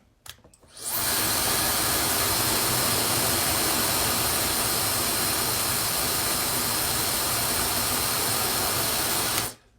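Maxodo 1400W high-speed hair dryer with a brushless motor, switched on with a click and spinning up within a second. It runs with a loud, steady rush of air and a thin high whine, then stops abruptly about half a second before the end.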